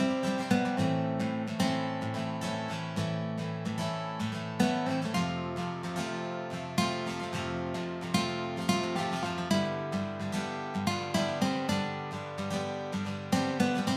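Cheerful acoustic guitar music, strummed and plucked chords in a steady rhythm.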